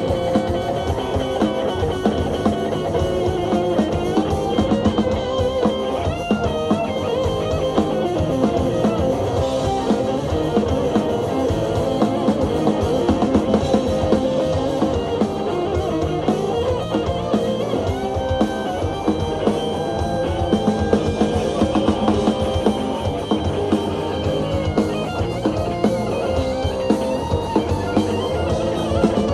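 Live rock band playing an instrumental passage, with electric guitar over a full drum kit.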